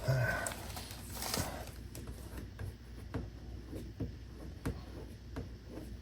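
Faint handling noises: a short low hum of a voice at the start, a brief swish about a second in, then scattered light taps and rustles.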